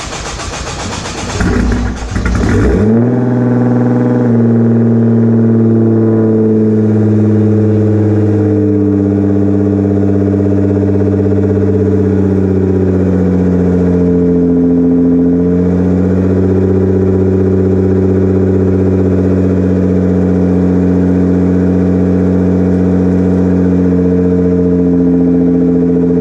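Nissan GT-R twin-turbo engine breathing through a straight-piped Nismo 3.5-inch cat-back exhaust, just started: a loud flare of revs in the first few seconds that drops away, then a steady idle.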